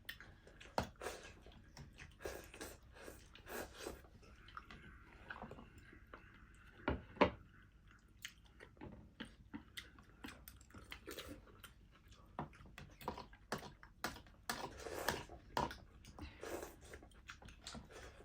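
Close-up chewing: irregular wet smacks and clicks of a mouth eating food. There are two louder knocks about seven seconds in.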